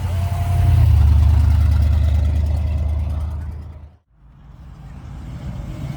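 A car driving past with a deep engine rumble, loudest about a second in and then fading away. The sound cuts out abruptly about four seconds in, then returns at a lower level.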